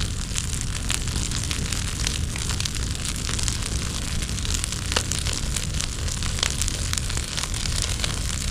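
Wood fire crackling, with many small scattered pops over a steady low rush.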